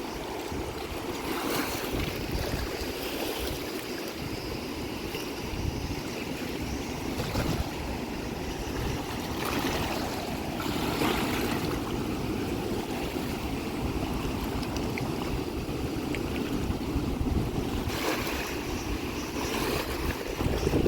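Steady rush of flowing water, with wind buffeting the microphone in gusts.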